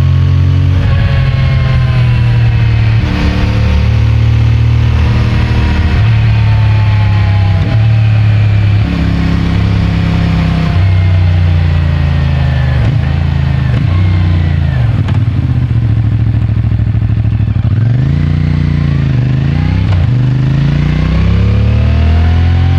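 CFMOTO 450MT's parallel-twin engine with stock exhaust, riding along with the revs climbing and then dropping at several gear changes. In the second half it slows off the throttle and picks up again. Heard from a microphone in the rider's pocket.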